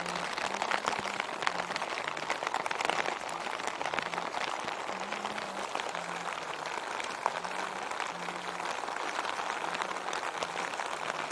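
Heavy rain falling steadily, a dense pattering of countless drops. A faint low tone holds in short steady notes underneath.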